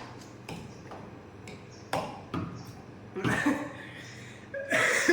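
Utensils clinking and scraping against plates as chowmein is eaten, a few sharp clicks followed by louder clattering near the end.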